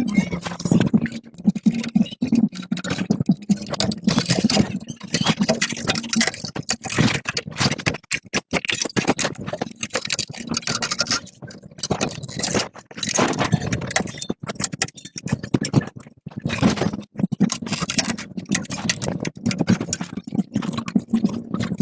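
Irregular scraping and rubbing strokes, as in hand work on a machine part, with a low steady hum underneath at the start and again near the end.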